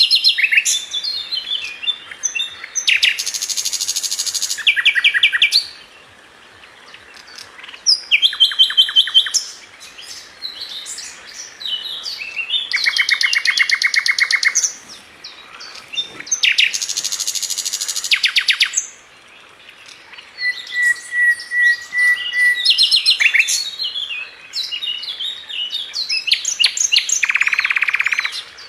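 Sikatan London flycatcher singing a varied song: twittering notes and several fast buzzy rattling phrases, with one steady whistled note held for about two seconds past the middle, and brief pauses between phrases.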